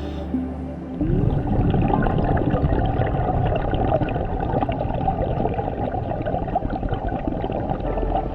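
Underwater bubbling and gurgling from a scuba diver's exhaled regulator bubbles, heard on the camera's microphone; it sets in suddenly about a second in and runs on densely.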